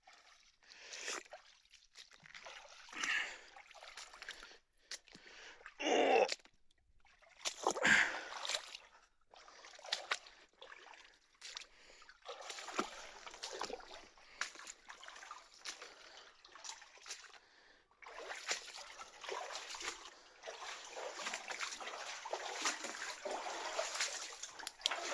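Feet wading through cold water in a flooded mine passage, with separate splashes and sloshes at each step that run together into steadier splashing about two-thirds of the way through.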